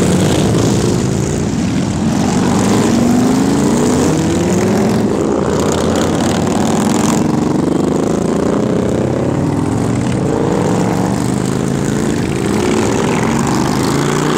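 Several motorcycle engines accelerating one after another, their pitch rising repeatedly as they pull away and shift up.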